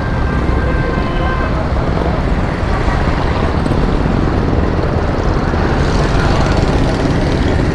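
Motorcycle ride through traffic: steady engine and road noise with wind rumbling on the microphone.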